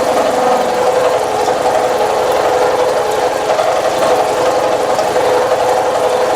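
Milling machine cutting a deep pass with a 5/8-inch two-flute high-speed-steel ball end mill under flood coolant: a loud, steady running hum with a rapid fine pulsing from the cutter, throwing big chips.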